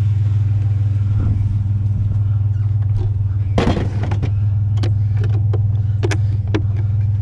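Truck engine running steadily at a constant low hum, with a knock about three and a half seconds in and a series of sharp clicks and knocks after it as scrap items are handled.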